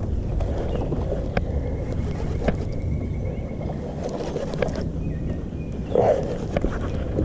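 Low steady rumble of boat and rod handling while a hooked bass is fought in on rod and reel, with a few sharp knocks and a louder short burst about six seconds in.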